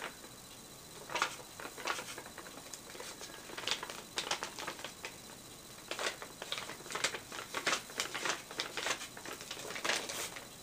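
Paper rustling and crinkling in short, irregular strokes as the wings of a large origami flapping bird are worked back and forth.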